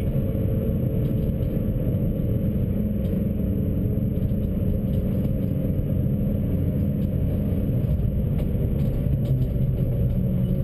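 Stage 2 tuned Suzuki Swift's four-cylinder engine pulling at steady revs, heard from inside the cabin along with tyre and road noise and light interior rattles.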